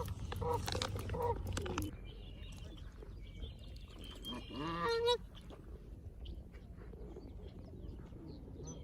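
Canada geese honking: a series of short calls in the first two seconds and a longer, louder honk about five seconds in.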